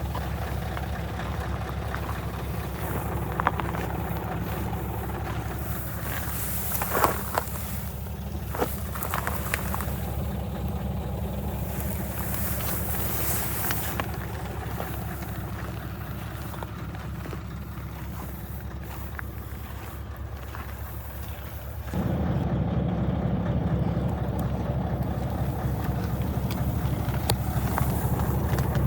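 Scania T144 truck's diesel engine idling steadily, with a few short knocks in the first ten seconds. About 22 seconds in, the engine suddenly becomes louder.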